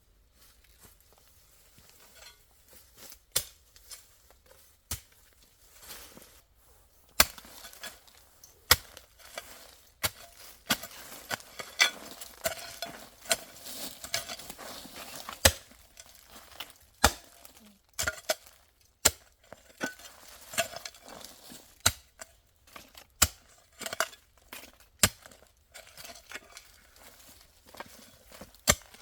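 A series of sharp knocks at irregular intervals, roughly one every second or two, with a busier stretch of clattering strikes in the middle.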